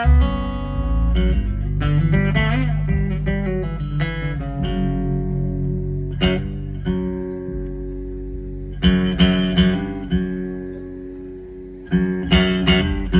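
Live band playing an instrumental passage of a waltz, led by strummed guitar with sustained notes and no singing. It fades down near the end, then strums start up again.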